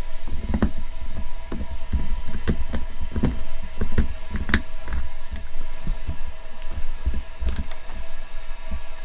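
Irregular knocks and low thuds of firewood being handled, with sharp crackles in between, as a wood-burning stove fire is laid and lit.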